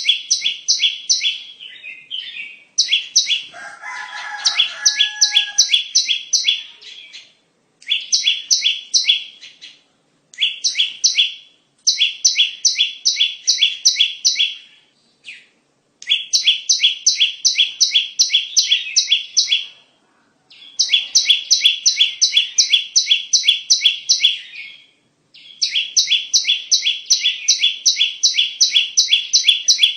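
Bar-winged prinia (ciblek) calling: rapid trains of sharp, high chirps, about eight a second, in bursts of one to four seconds with short gaps between them. A brief lower call sounds once, about four seconds in.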